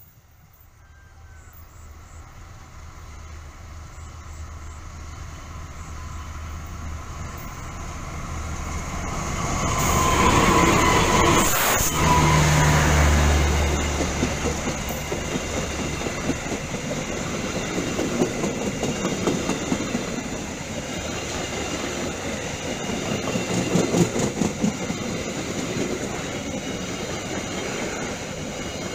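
Diesel-hauled passenger trains passing close by, wheels clattering and rumbling on the rails. The sound swells for about ten seconds to a peak, with a steady low engine hum beneath it. After that comes a long run of coaches rattling past.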